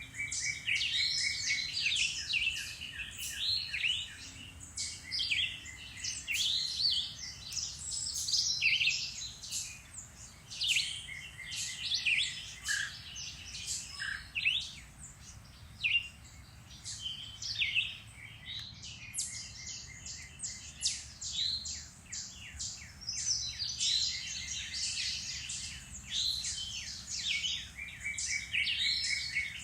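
Woodland birdsong: several songbirds singing over one another in quick chirps and whistled phrases, with a rapid trill of repeated notes that comes back every few seconds.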